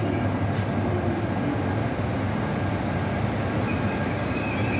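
E5 series Shinkansen train rolling slowly past the station platform: a steady low rumble of wheels and running gear. Faint high wheel squeal comes in near the end.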